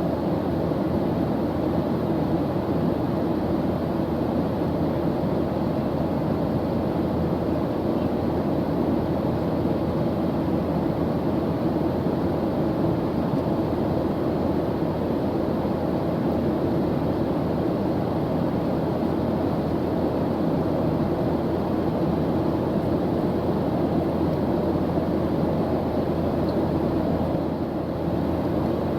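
Airplane engine drone: a steady, even noise, mostly low and mid in pitch, that does not change.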